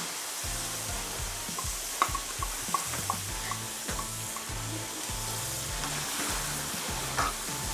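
Squid rings and diced carrot sizzling in a hot nonstick frying pan while being stirred with a slotted spatula, with a few sharp clicks of the utensils against the pan.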